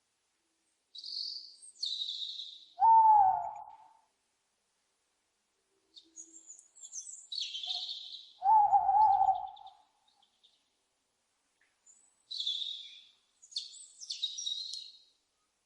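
Owls calling: clusters of harsh, high screeching calls, broken twice by a louder, lower call about a second long that bends slightly in pitch.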